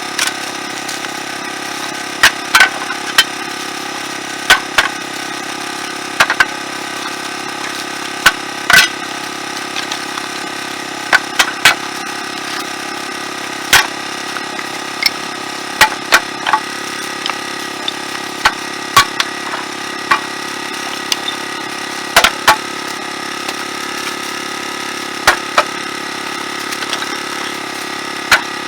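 Utility vehicle's engine idling steadily while pieces of split firewood are tossed and stacked, knocking and clattering against each other at irregular intervals.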